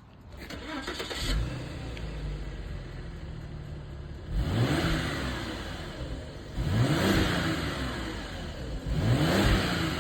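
Audi A6 allroad's engine idling, then revved three times, each rev climbing and falling back to idle, while it runs on a hydrogen carbon-cleaning treatment.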